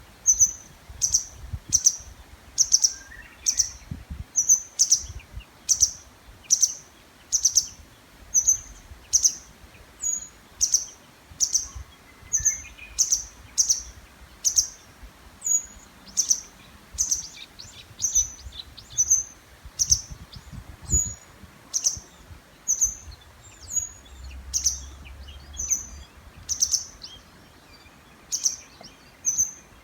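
A songbird repeats a short, high call a little more than once a second without a break, at the height of the breeding season. Other birds sing faintly behind it, among them a Japanese bush warbler.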